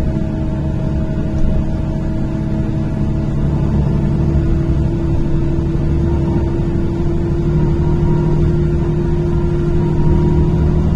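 NefAZ-5299 city bus under way, heard from inside the passenger cabin: steady engine and drivetrain drone over low road rumble, with a whine that climbs slightly in pitch from about four seconds in as the bus picks up speed.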